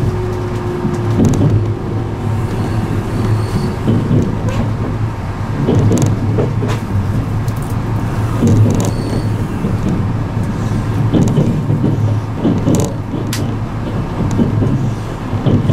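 Interior running noise of an E653 series electric limited-express train: a steady low rumble with uneven clatter and knocks from the wheels on the track. A faint whine slowly falls in pitch and fades out in the first few seconds.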